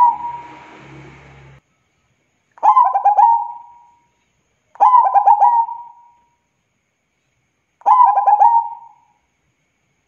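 Zebra dove (perkutut) cooing: three phrases about two seconds apart, each a quick run of stuttering notes ending in a drawn-out coo. The tail of an earlier phrase sounds at the very start.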